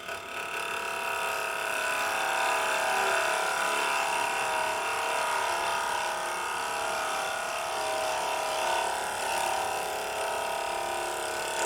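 Wood lathe running while a bowl gouge cuts a spinning block of construction lumber down to size: a steady motor whine under a rough cutting hiss that starts as the cut begins.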